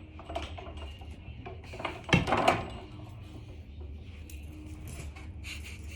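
Handling noises, a few clicks and knocks loudest about two seconds in, over a steady low hum.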